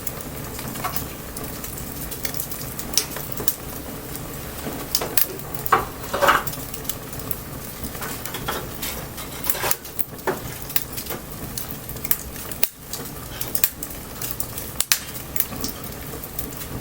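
Wood bonfire burning, crackling with irregular sharp pops over a steady hiss, with a few louder pops about six seconds in.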